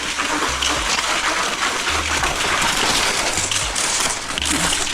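Cross-country skis scraping and sliding over icy, hard-packed snow: a steady, dense hiss with an uneven low rumble underneath.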